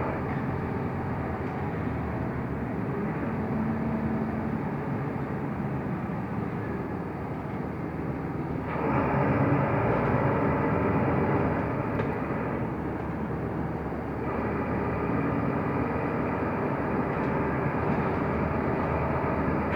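Mercedes-Benz O345 Conecto LF city bus driving, its engine and road noise heard from inside the passenger cabin. The noise grows louder about nine seconds in and eases back around fourteen seconds.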